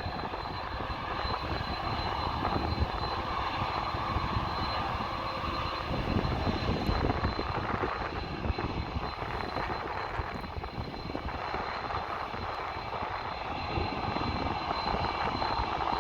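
Jet airliner engines running at a distance: a steady rush of engine noise with a thin, steady high whine.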